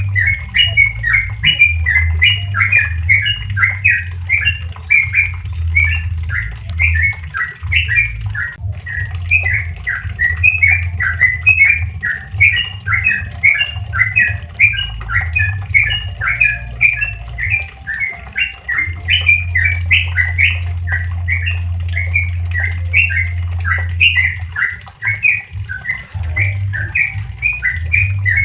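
Yellow-vented bulbul (trucuk) singing a long, unbroken run of quick, bubbly notes in the rapid 'ropel' style, over a steady low hum.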